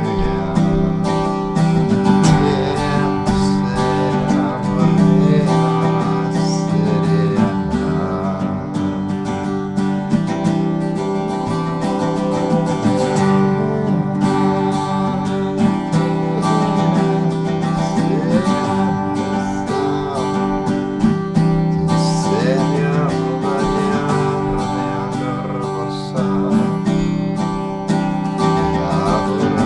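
Acoustic guitar music, strummed steadily, with at most faint singing.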